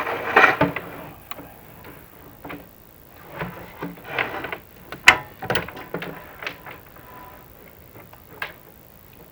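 Irregular knocks, scrapes and clicks as a chimney inspection camera is worked through a terracotta-tiled flue, with one sharp click about five seconds in.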